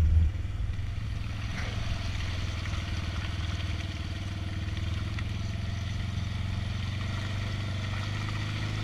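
Polaris RZR side-by-side engine running at a steady low speed while the machine drives into a trail puddle.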